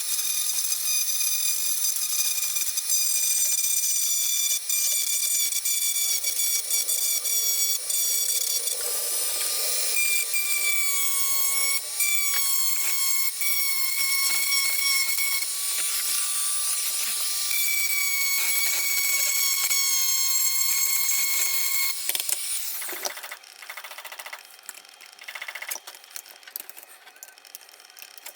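Small high-speed power tool, such as a rotary tool, running with a steady high-pitched whine that sags slightly in pitch now and then under load. It stops about 22 seconds in, and a few light clicks and scrapes follow.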